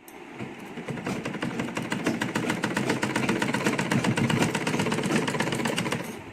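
Sewing machine running, stitching around the edge of two layers of cotton cloth with rapid, even strokes; it starts just after the beginning, picks up speed and stops about six seconds in.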